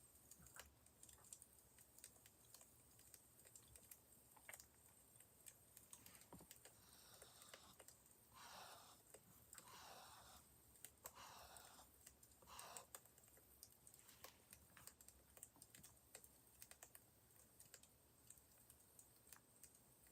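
Faint crackling fire, scattered small pops and snaps throughout. About a third of the way in come five soft rustling sounds in quick succession.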